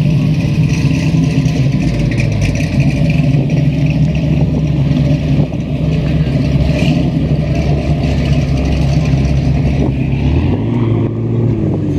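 Car engine running loudly with a deep, steady rumble; the sound shifts about ten seconds in as the lowest part of the rumble drops away.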